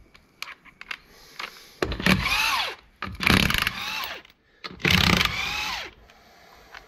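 Handheld power tool run in three short bursts, its motor pitch sweeping as it spins up and winds down, with small clicks and knocks of metal parts between the bursts.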